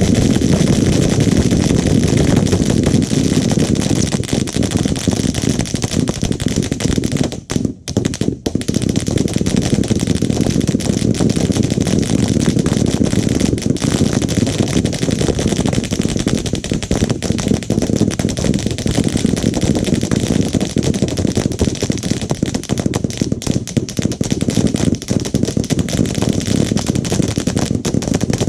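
Automatic gunfire from machine guns, near-continuous rapid shots with a short break about seven and a half seconds in.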